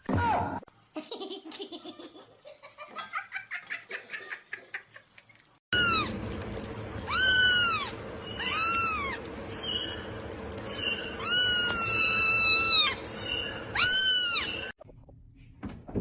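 A domestic cat meowing loudly several times, starting about six seconds in, with one long drawn-out meow in the middle and the loudest one near the end.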